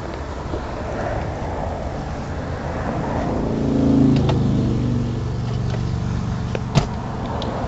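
Highway traffic rushing past, with one vehicle's engine hum swelling about three to four seconds in and dropping slightly in pitch as it goes by. A single sharp click comes near the end.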